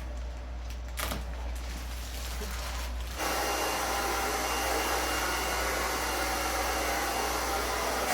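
Handheld hair dryer switched on about three seconds in and running steadily, blowing hot air to shrink plastic window-insulation film tight over a window.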